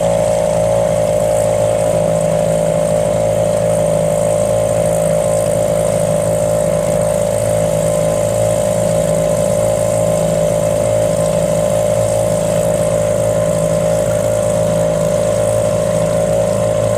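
A motor running steadily at a constant speed, with an even, unchanging hum.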